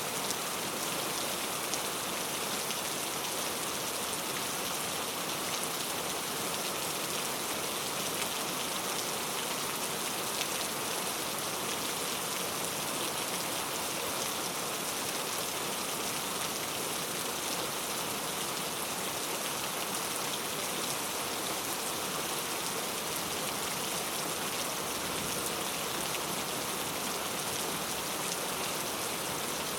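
Heavy rain falling steadily on mango tree leaves, a dense, even patter with occasional louder drops.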